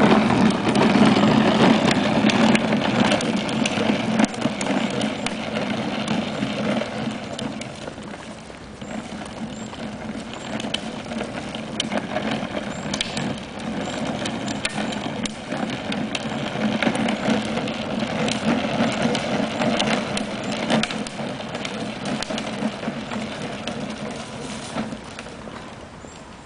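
A small motorcycle engine running, loud at first, fading, then swelling again for a while before fading off toward the end as the bike moves away and back.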